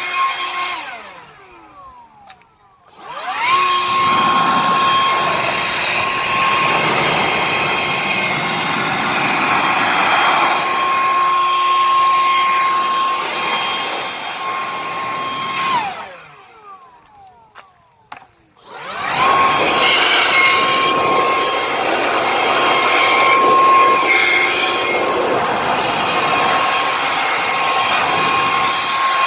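Makita two-battery cordless blower running with a steady high whine. It winds down soon after the start, spins back up about three seconds in, then winds down again around the middle and spins back up.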